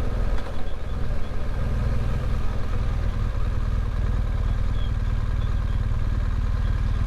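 BMW GS motorcycle engine running at a steady speed, a constant low rumble.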